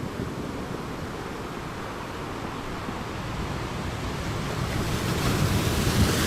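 Ocean surf on a beach: a steady wash of water, with a wave building and breaking near the end.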